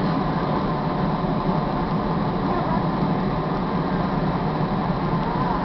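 Steady rumble of a Metra bilevel commuter train standing at the platform with its engine running, with passengers' voices mixed in.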